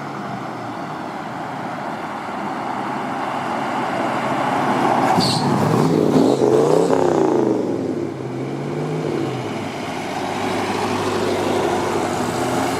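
Car engine running steadily, then revved up and back down about halfway through, with a second smaller rise and fall after it.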